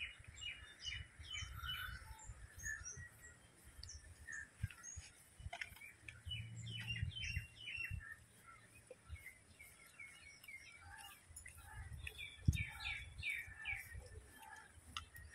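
Birds chirping faintly in short runs of quick, falling chirps, over a low rumble, with a single knock about twelve seconds in.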